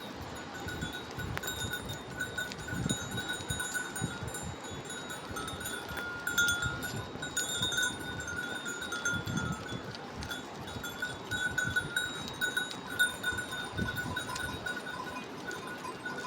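Bells on a grazing flock of sheep clinking and ringing irregularly as the animals move.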